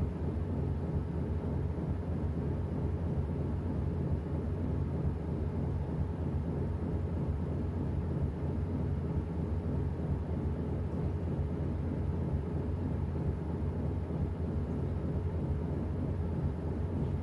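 New washing machine running: a steady low hum and rumble from its motor and drum, even in level throughout.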